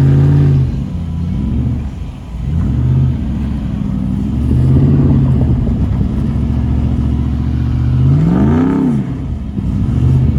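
A car engine revving up and down under hard driving. Its pitch rises and falls several times over a steady low drone, with the highest rev about eight and a half seconds in.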